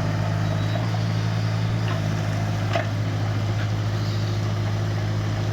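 Kubota U17-3 mini excavator's three-cylinder diesel engine running steadily at a constant, even speed, with no revving.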